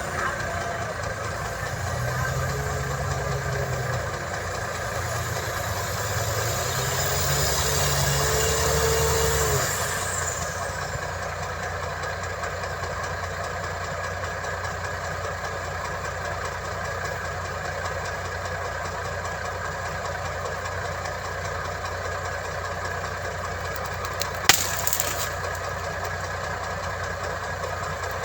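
Diesel engine of heavy earthmoving equipment running steadily, building up in revs and loudness over the first several seconds and easing back about ten seconds in. A single sharp knock sounds near the end.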